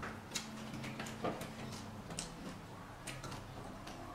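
Close-up eating sounds: soft, irregular clicks and crunches of chewing raw vegetables and handling food, a few ticks a second, over a faint low hum.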